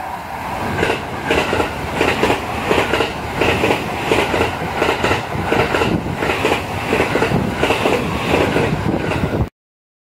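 Limited express electric train passing at speed, its wheels clacking over rail joints about twice a second. It swells in at the start and cuts off suddenly near the end.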